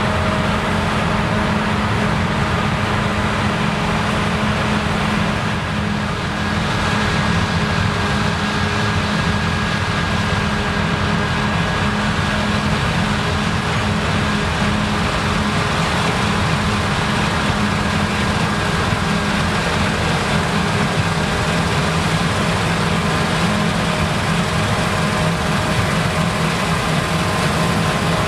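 Claas Lexion combine harvester running steadily in the rye harvest: an even engine and machinery drone with a faint high whine over it, easing slightly for a moment about six seconds in.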